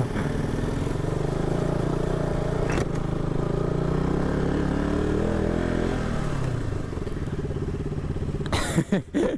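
Motorcycle engine running steadily, its pitch rising and falling briefly partway through as the throttle changes. Near the end it gives way abruptly to a loud, choppy sound.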